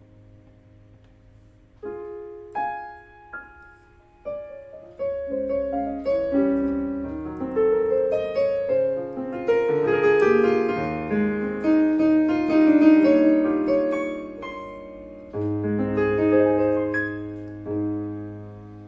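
Casio CT-S1 portable keyboard played with a piano voice. A held chord fades out, then new chords come in about two seconds in and build into a denser passage. The playing thins out, and a fresh chord is struck near the end.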